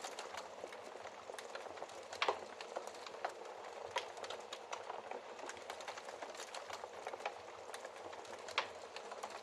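Wood fire crackling in a fireplace: a steady soft hiss with many small snaps and a few louder pops, the loudest a little over two seconds in.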